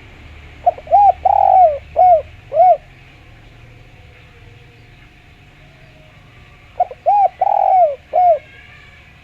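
A spotted dove (derkuku) cooing with a clear voice. It gives two phrases, one about a second in and one about seven seconds in, each of about five notes with a longer, louder note in the middle.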